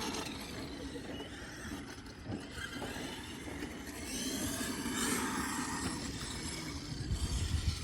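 Radio-controlled vehicle running over rough ground: a rough, uneven mechanical noise with no steady pitch.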